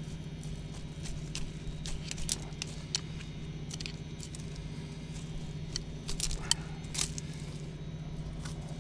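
Dry leaves and stems rustling and crackling in short, irregular snaps as weeds are pulled out by hand, over a steady low hum.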